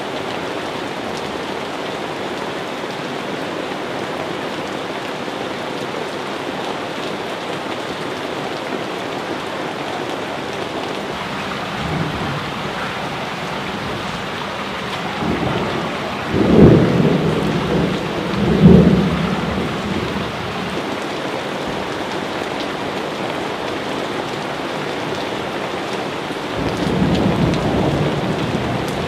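Steady rain with thunder rumbling. Two loud low peals come about two seconds apart just past the middle, and softer rumbles come before them and again near the end.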